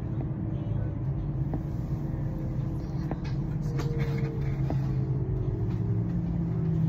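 Electric passenger train running: a steady low rumble and hum, with a motor whine that falls slowly in pitch and a few faint clicks.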